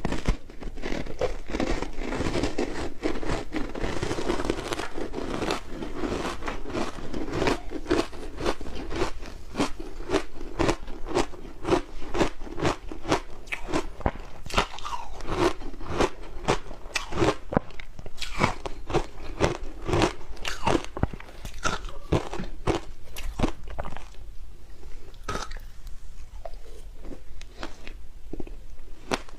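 Close-up crunching of ice being bitten and chewed, a rapid run of sharp cracks several times a second, thinning out somewhat in the last few seconds.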